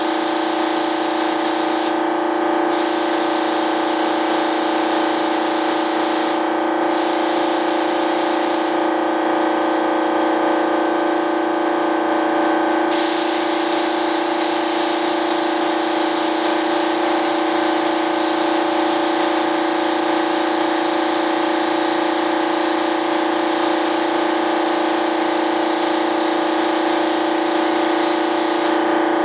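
Spray gun hissing as epoxy primer is sprayed in a light coat, over a loud, steady machine hum from the air supply. The hiss stops briefly about two and six seconds in, pauses for about four seconds from nine seconds in, and stops again near the end, each time the trigger is released.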